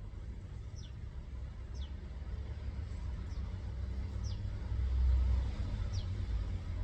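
A small bird repeating a short whistle that falls in pitch, about once a second, over a steady low rumble that swells briefly near the end.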